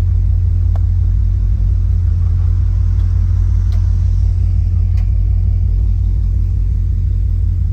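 Car engine idling, a steady low rumble, with a couple of faint clicks.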